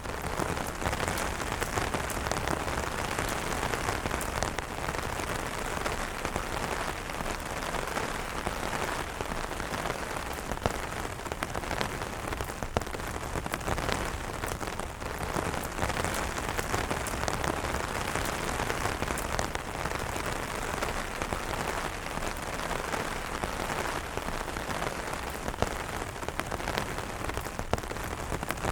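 Steady rain falling on umbrellas: a constant wash of rain with many separate drops ticking sharply on the fabric.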